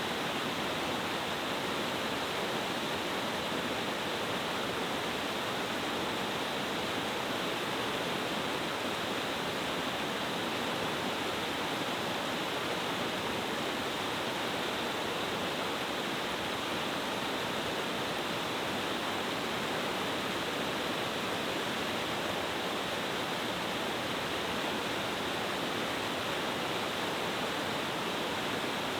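Multi-tiered mountain stream cascade waterfall: water falling and rushing steadily, an even unbroken noise with no other sounds.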